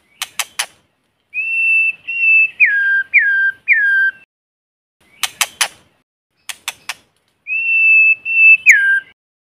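White-rumped shama singing: clear whistled notes held at one pitch, several ending in a sharp downward drop, alternating with quick groups of three sharp clicks. Loud and clean, with dead silence between phrases.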